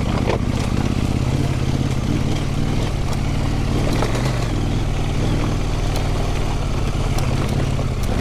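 Husqvarna Norden 901 adventure motorcycle's parallel-twin engine running at low, steady revs, with a few faint clicks over it.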